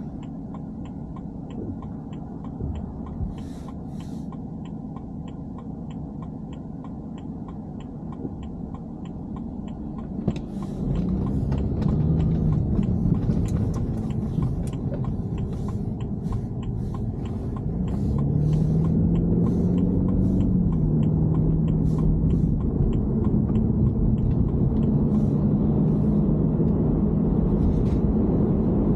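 BMW E90 3 Series running with a low, steady rumble and an even ticking about twice a second. About ten seconds in the rumble grows suddenly louder as the car gets under way. Around eighteen seconds in a steady drone comes in and holds.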